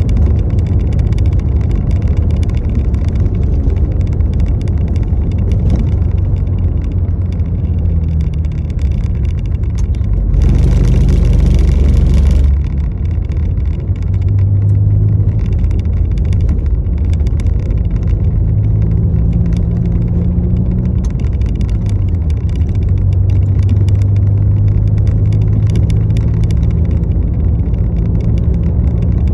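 Road vehicle running: a steady low engine and road rumble, with a louder hiss for about two seconds near the middle.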